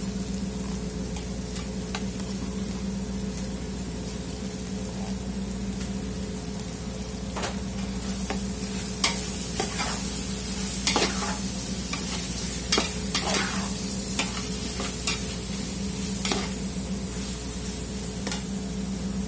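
Beef cubes sizzling in a large aluminium pot while tomato paste is stirred in with a metal utensil, which scrapes and clinks against the pot, most sharply from about halfway through. A steady low hum runs underneath.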